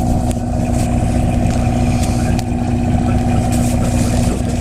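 Sightseeing boat's engine running steadily: a low, even drone with a steady hum.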